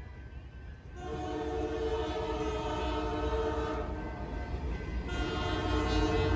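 Locomotive air horn sounding a chord of several notes at once: one long blast starting about a second in, a short break, then a second blast about five seconds in, over the low rumble of the passing train that grows louder near the end.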